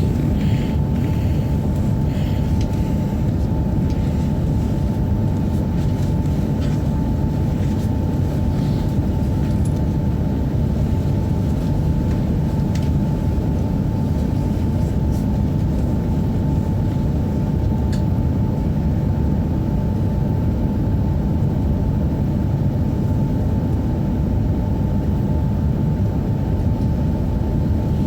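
Tohoku Shinkansen Hayabusa train sounding as a steady low rumble with a thin, constant whine above it.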